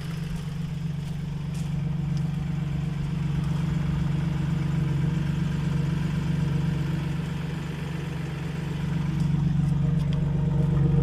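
Toyota 4Runner's V6 running steadily through a catless dual-downpipe exhaust with a single Dynomax Super Turbo muffler, a deep even drone that grows a little louder near the end.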